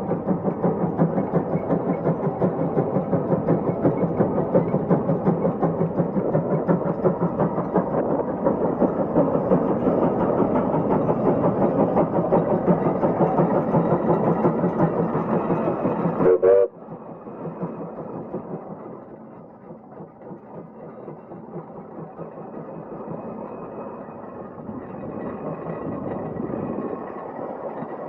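Case 150 steam traction engine's exhaust chuffing fast and evenly while hauling a heavy plow under load. About two-thirds of the way through, the sound cuts off abruptly, leaving a much quieter, softer run.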